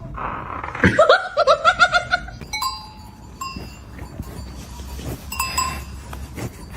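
An animal vocalising: a quick run of high, wavering cries about a second in, then a few short steady high tones.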